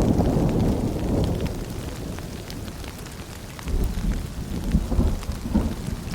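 Rain ambience: a steady patter of rain and drips, with sharp little drop ticks, over a low rumble. The rumble eases off midway and swells again in pulses a little before the four-second mark.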